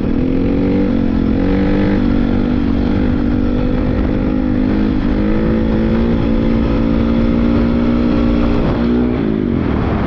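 Honda CRF450R dirt bike's single-cylinder four-stroke engine running, its pitch rising and falling with the throttle, dipping about five seconds in and dropping near the end.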